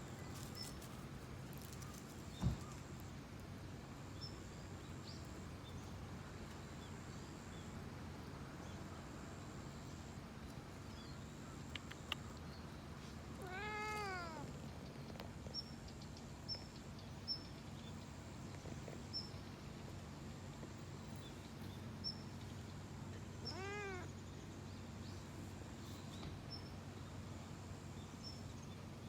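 A domestic cat meowing twice, about ten seconds apart: a longer meow about fourteen seconds in and a shorter one near twenty-four seconds, each rising and then falling in pitch. A sharp knock sounds a couple of seconds in, over a steady low hum.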